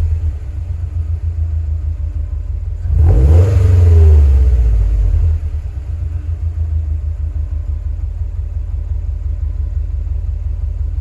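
Exhaust of a Subaru Impreza WRX STI A-Line's turbocharged EJ25 boxer engine through an STI sport muffler, idling. It is revved once briefly about three seconds in, rising and falling back to idle.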